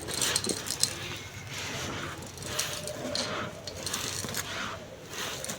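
Soft dry sand crumbling and crushing over a clay pot: a grainy hiss broken by many small crisp crackles.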